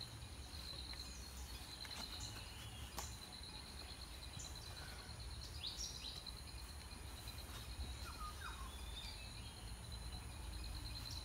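Outdoor ambience: a steady high insect trill throughout, a few short bird chirps, a low rumble and a few faint clicks.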